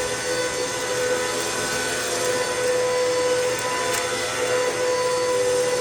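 Hoover MaxLife Total Home Pet vacuum cleaner running steadily, its motor giving a constant whine over the rush of airflow.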